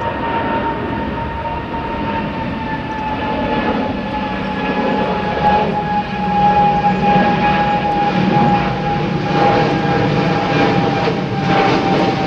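Boeing 777-200's twin jet engines at takeoff power as the airliner climbs away: a loud, steady jet roar with a high whine that glides slowly lower in pitch.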